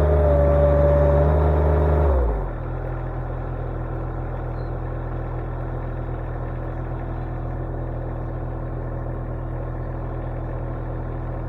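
Derette V1000 mini skid steer's engine running at high revs, then throttled down to a steady idle about two seconds in.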